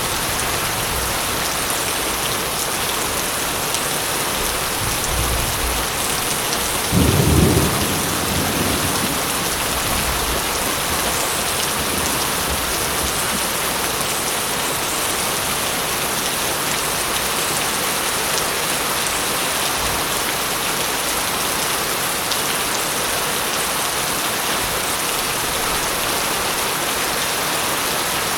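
Steady heavy rain falling, with a short low rumble of thunder about seven seconds in and fainter low rumbling a little before it.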